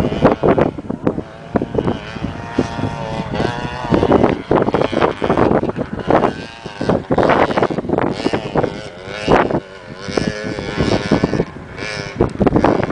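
Motocross bike engines running and revving, their pitch rising and falling, with gusts of wind on the microphone.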